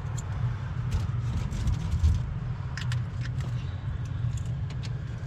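A steady low rumble, with scattered light clicks and taps.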